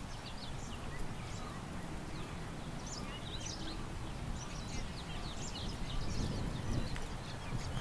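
Several small songbirds chirping in quick, short calls, busiest in the middle, over a steady low rumble of wind.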